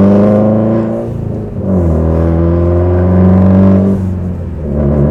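2015 Subaru WRX STI's turbocharged flat-four, straight-piped through a catless downpipe and Tomei exhaust with a silencer added, heard from inside the cabin accelerating through the gears. Its pitch climbs, drops at an upshift about a second and a half in, climbs again, and drops at another shift near the end.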